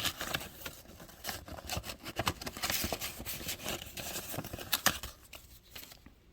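Old paper photographs and a paper envelope rustling and crinkling as the prints are slid back into the envelope and handled, with irregular small clicks and scrapes that die away about five seconds in.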